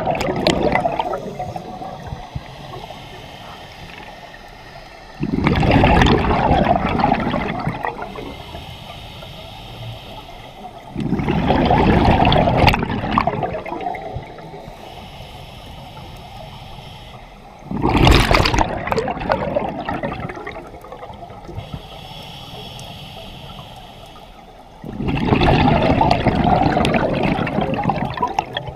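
Scuba diver breathing through a regulator underwater: exhaled bubbles rush out in bursts of two to three seconds, four times, about every six to seven seconds, with quieter stretches between breaths.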